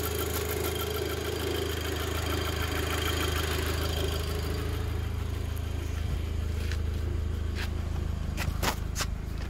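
Audi 2.0 TFSI four-cylinder petrol engine idling steadily on its freshly fitted camshaft and timing chain, with a faint higher whine that fades out about halfway. A few sharp clicks near the end.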